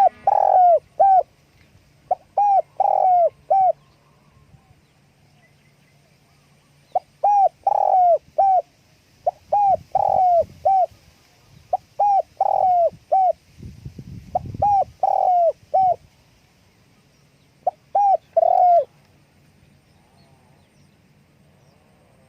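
Spotted dove cooing: repeated phrases of three or four short hooked coos, about seven phrases with pauses between them.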